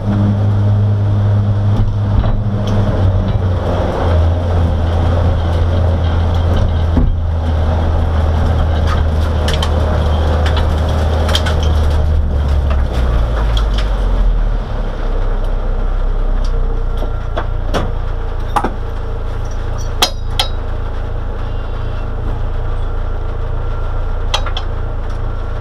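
Race car's engine running at low revs, heard from inside the cabin as the car rolls slowly, with its low note stepping down about four seconds in and again around thirteen seconds. Scattered knocks and rattles from the car's body and interior.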